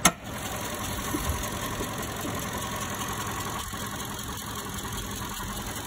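2020 Toyota Camry SE's four-cylinder engine running steadily, after a single sharp click at the start.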